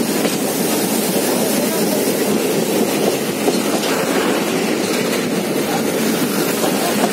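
Train running across a bridge, heard from aboard: a steady, even rumble of wheels on the rails with a hiss over it.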